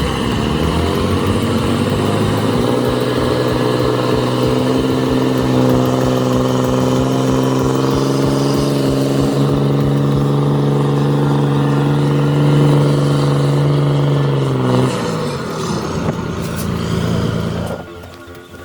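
A heavy truck engine revs up over the first couple of seconds and holds a steady, high pitch under load. About fifteen seconds in it winds down.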